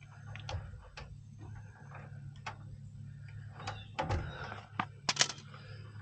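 Small clicks and rustles of hands working control wires and terminals onto a pressure switch, with a sharper snap about five seconds in, over a steady low hum.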